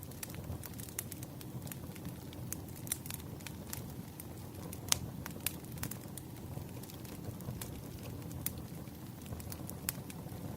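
Crackling wood fire: a steady low rumble of burning logs with irregular sharp pops and snaps, one louder pop about five seconds in.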